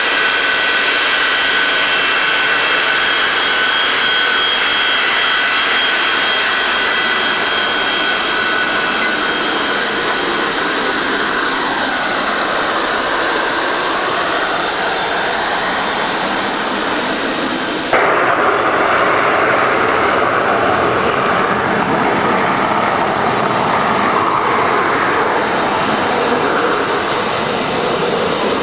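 Boeing 737-200's Pratt & Whitney JT8D turbofan engines running: a steady jet roar with several high whining tones. About eighteen seconds in, the sound changes abruptly; the whine drops away and a fuller roar carries on.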